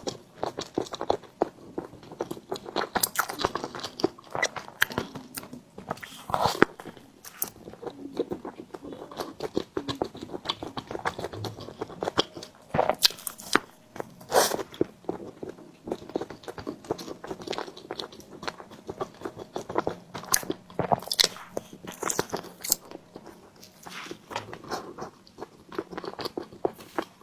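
Close-miked eating of steamed bread: biting and chewing, many short mouth clicks in quick succession with a few louder bites.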